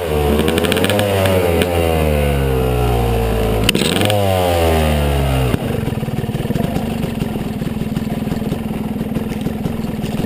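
Yamaha 250 dirt bike engine revving, its pitch climbing and dropping several times as the throttle and gears change. About five and a half seconds in it settles into a lower, steadier running.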